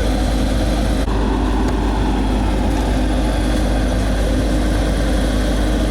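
A large engine running steadily, a low, unbroken drone, from a vehicle or road-construction machinery.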